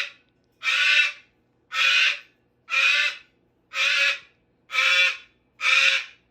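Umbrella cockatoo screeching: a loud, harsh call repeated about once a second, evenly spaced.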